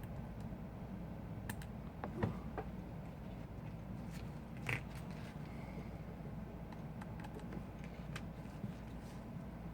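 Scattered light clicks and taps of small tools and phone parts being handled during an iPhone repair, a few sharper clicks standing out, over a steady low background hum.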